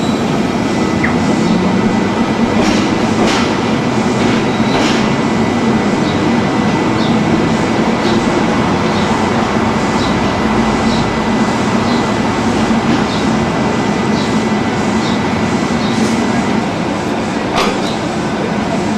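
NSW 620/720 class diesel railcar running along the line, heard from on board: a steady loud rumble of engine and wheels on rail, with light clicks recurring about once a second.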